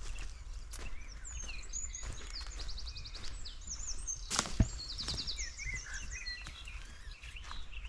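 Small songbirds chirping, with a couple of fast trills, and one sharp crack about halfway through, over a steady low rumble.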